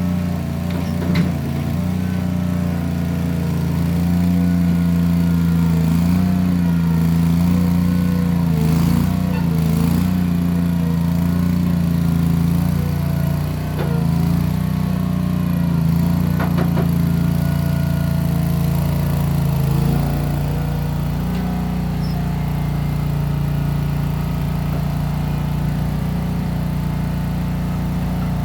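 Case 1816 skid steer's engine running steadily while working dirt, its note sagging and recovering a few times as it takes load, with a short knock about a second in. It settles slightly lower near the end.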